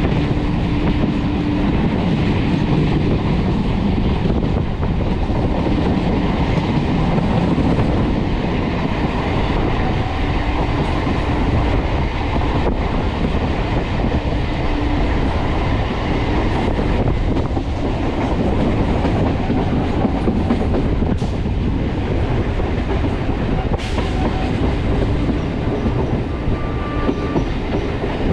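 Electric multiple unit local train with an ICF-built rake running at speed: a steady, loud rumble of wheels on the track, with clickety-clack over rail joints and a few sharp knocks.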